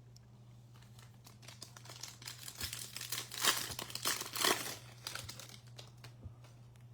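A foil trading-card pack wrapper being torn open and crinkled, loudest in the middle, over a steady low electrical hum.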